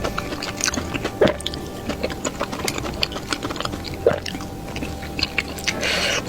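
A person chewing and biting fried food, with many short crisp clicks and wet mouth sounds.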